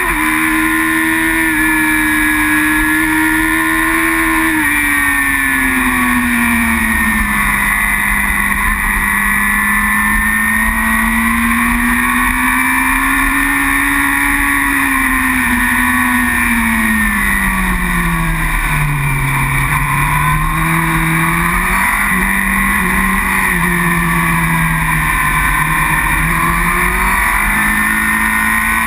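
A racing superbike's engine running hard at speed, its pitch slowly rising and falling as the throttle and gears change. The pitch sinks to its lowest a little past halfway, as if braking and downshifting for a corner, then climbs again.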